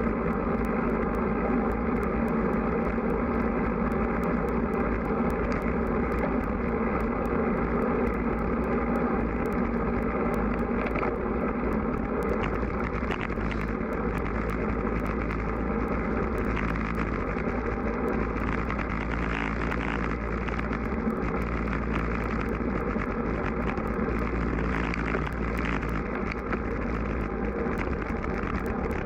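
Steady rush of wind and road noise on the microphone of a road bike being ridden into a strong wind, with faint ticking through it.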